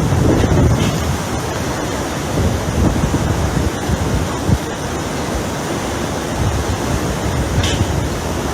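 Hurricane wind blowing hard and steadily, with gusts buffeting the microphone as low rumbling thumps.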